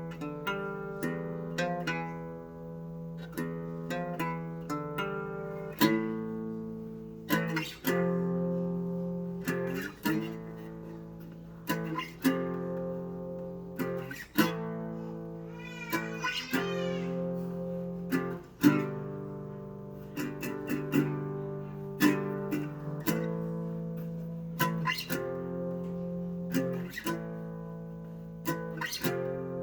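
Acoustic guitar music: plucked notes and strummed chords in a steady rhythm, with a brief flurry of high notes near the middle.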